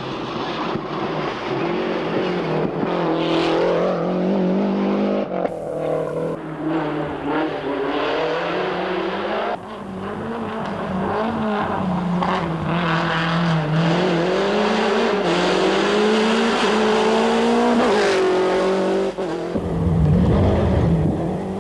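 Rally car engine at full effort, its pitch rising and falling repeatedly as it revs up through the gears and lifts off, with sudden shifts where the footage cuts. Light tyre squeal is mixed in.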